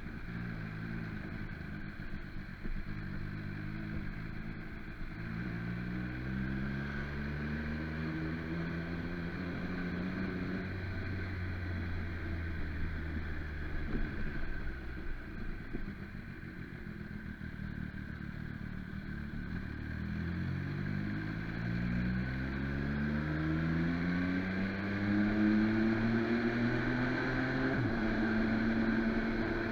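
MV Agusta Brutale motorcycle engine under way, its pitch climbing as it accelerates and dropping back at gear changes, twice building up through the revs, with a steady rush of wind and road noise.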